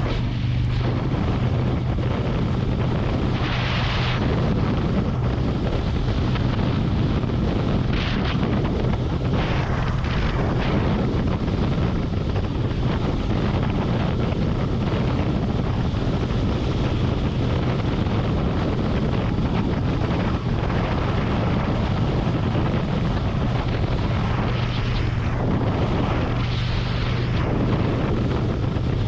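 Harley-Davidson Road Glide's V-twin engine running steadily at highway cruising speed, with constant wind noise on the camera microphone. A few brief louder swells of rushing noise come and go.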